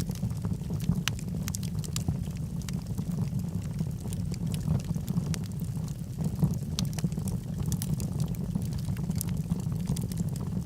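Log fire burning in a fireplace: a low, steady rush of flame with frequent sharp crackles and pops from the burning wood, scattered irregularly.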